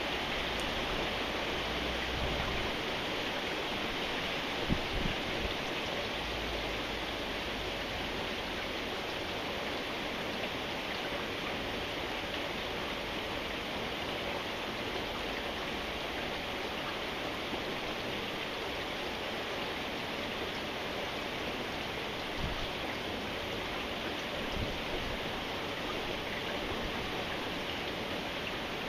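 Steady rain falling, an even hiss, with a few soft low thumps about five seconds in and twice more near the end.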